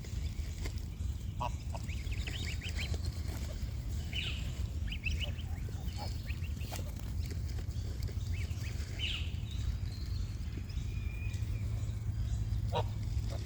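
Waterfowl calling at a lake: scattered short quacks and honks from ducks and geese, coming in small clusters, over a steady low rumble.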